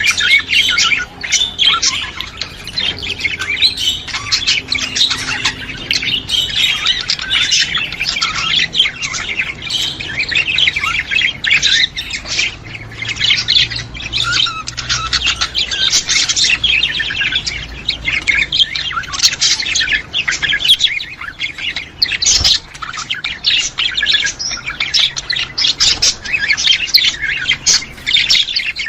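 A flock of budgerigars chattering without pause: many overlapping high chirps, warbles and short squawks.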